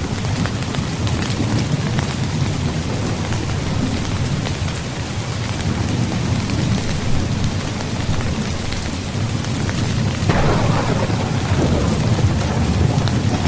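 Steady rain pattering on a tent, with low rolling thunder underneath; the rumble swells louder about ten seconds in.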